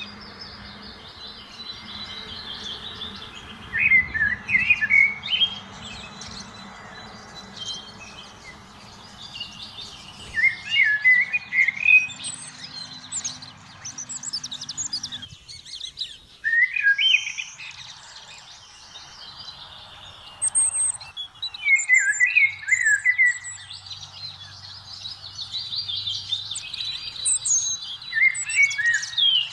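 Birds singing: a loud song phrase recurs every five or six seconds over continuous high twittering from other birds.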